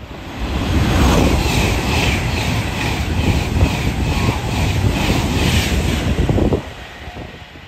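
High-speed passenger train running through the station at speed close by: a steady rush of wheels and air with a regular clatter about twice a second. The sound drops away sharply near the end as the last coach passes.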